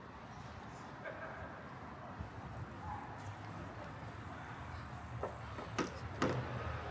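City street ambience: a steady low hum of traffic with faint chatter from passers-by, and a few sharp clicks near the end.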